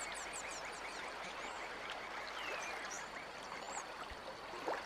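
Swamp ambience: many birds calling with short high chirps and squeaks, a rapid trill early on and a falling call midway, over a steady hiss.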